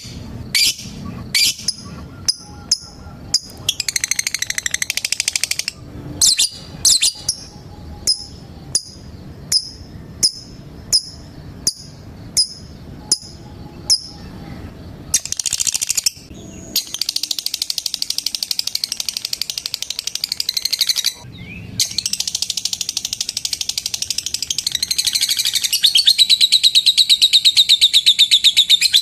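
Lovebird calling: sharp single chirps repeated about one and a half times a second, broken by a short chatter. About halfway through they give way to long, continuous rapid chattering trills (the 'ngekek' song that keepers prize), which grow louder near the end.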